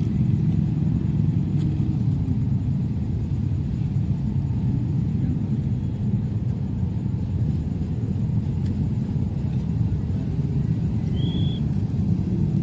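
Steady low rumble of jet airliner engines, with a short high chirp near the end.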